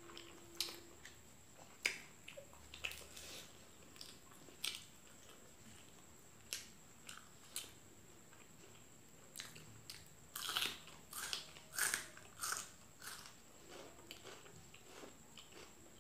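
Close-up eating sounds: chewing with scattered crisp crunches and wet mouth clicks. A denser run of crunches comes about ten seconds in, as raw bitter gourd dipped in sambal is bitten and chewed.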